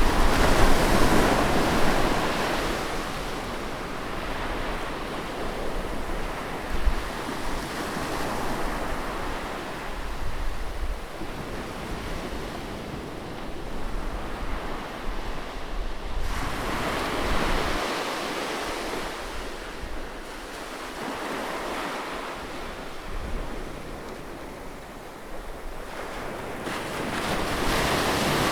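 Sea waves surging and breaking in a continuous wash of surf. Each wave swells and fades over several seconds, with the strongest surges at the start, about two-thirds of the way through, and near the end.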